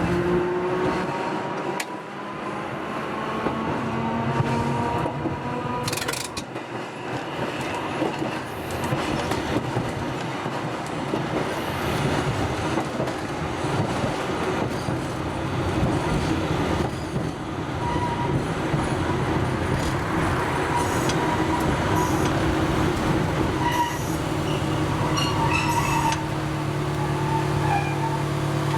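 Hakodate City Tram type 500 streetcar running, heard from the driver's cab. The traction motor whine rises during the first few seconds as the car picks up speed, then gives way to wheels rumbling and clicking on the rails. Short high squeals come from the wheels in the second half.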